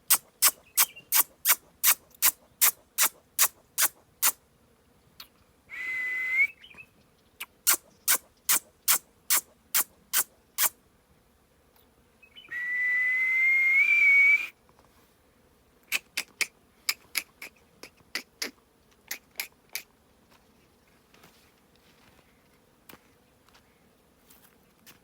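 A parrot making runs of sharp, evenly spaced clicks, about three a second, broken by two high whistled notes. The second whistle is longer, louder and rises slightly before it stops.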